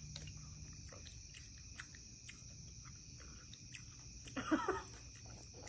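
Crickets or other insects trilling steadily in the background, with scattered faint clicks. A short voiced sound, the loudest thing here, comes about four and a half seconds in.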